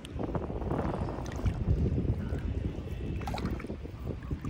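Wind buffeting the microphone over lake water, with a few faint splashes as a hooked fish is drawn in through the shoreline weeds.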